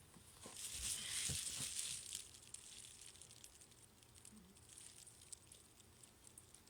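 Rustling and crinkling of packaging being handled for about a second and a half, followed by a few faint light clicks and taps.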